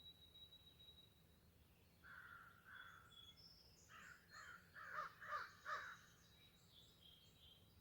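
A bird calling: two calls about two seconds in, then a quick run of about five louder calls, with faint high chirping of small birds throughout.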